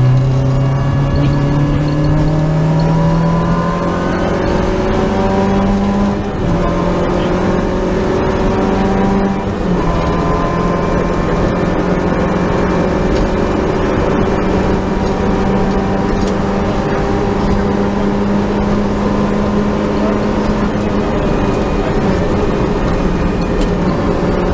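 Peugeot 205 GTi rally car's four-cylinder engine heard from inside the cockpit, accelerating hard with rising revs. The pitch drops at two quick upshifts, about six and nine seconds in, then the engine holds high revs at speed.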